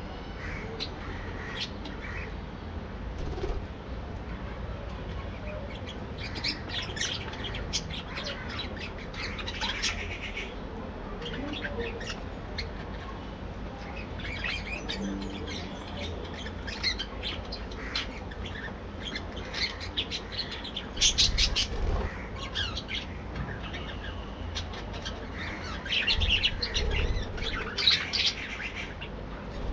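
A colony of budgerigars chattering, with rapid chirps and squawky calls that come in bursts and ease off between them. A low rumble runs underneath.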